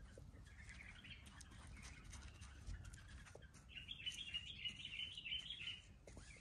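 Faint twittering of small birds, growing stronger about four seconds in, over a low rumble and a few faint clicks.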